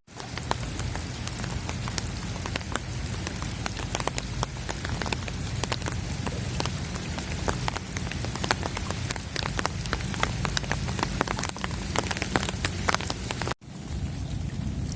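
Storm rain falling, many separate drops ticking and pattering close by over a steady hiss, with a low wind rumble underneath. The sound cuts out for a moment near the end, then the rain carries on.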